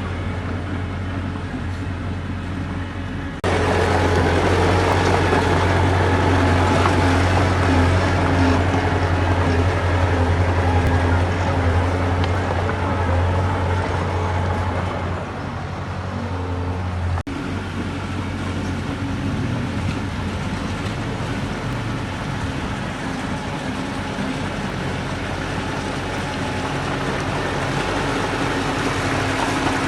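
Heavy diesel engines of earthmoving machinery running steadily with a deep low hum. The sound gets abruptly louder about three seconds in and abruptly changes again a little past the middle.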